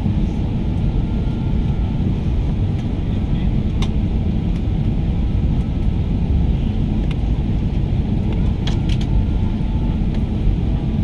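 Steady cabin rumble and air-conditioning rush inside an Airbus A320 cabin, with a few sharp clicks, two of them close together near the end.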